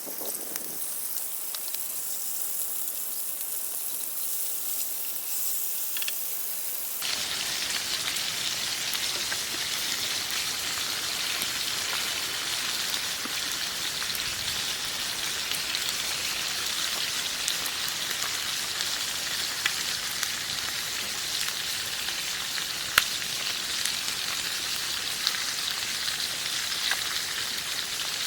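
Steady hissing noise sprinkled with light ticks and crackles, the sound of rain or of something sizzling; it jumps abruptly to a fuller, louder hiss about seven seconds in.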